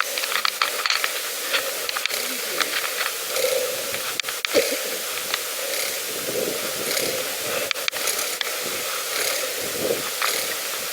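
Pedal bike being ridden along a path: a steady hiss of wind and tyres, with scattered clicks and rattles from the bike.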